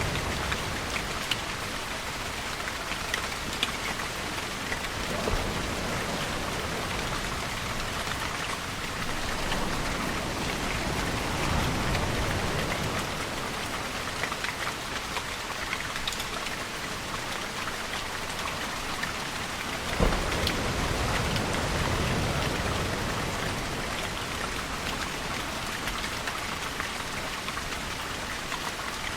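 Steady rain falling, with low rumbling swells that rise and fade every several seconds. A single sharp tick about twenty seconds in.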